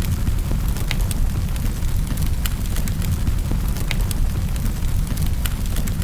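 Wood fire crackling in a fireplace: a dozen or so sharp pops and snaps at irregular intervals over a steady low rumble.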